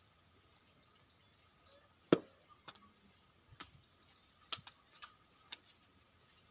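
A handful of sharp, irregular clicks and taps, the first and loudest about two seconds in, with a run of faint, short high chirps in the first second or two.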